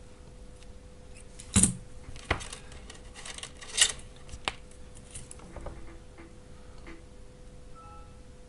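Battery cells and cell blocks being handled on a workbench: a few sharp clicks and knocks, the loudest about a second and a half in, and a quick cluster of clicks near four seconds.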